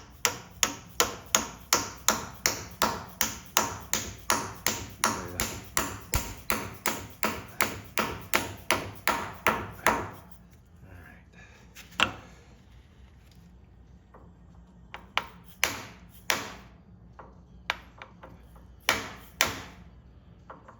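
A hammer driving a press-fit steel bushing into the Bobtach pivot bore of a Bobcat T190 skid steer, striking metal on metal with a ringing tap at about three blows a second for some ten seconds, then a pause and a few single blows near the end.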